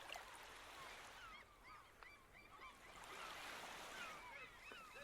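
Faint chorus of many birds making short chirping calls, several a second and overlapping, over a steady hiss.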